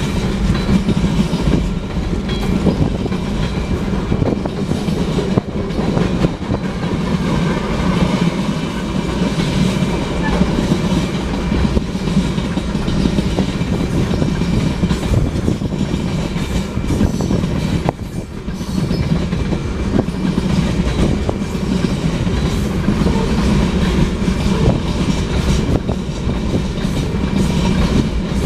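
Freight cars of a manifest train rolling steadily past at trackside: continuous rumble and clatter of steel wheels over the rail joints.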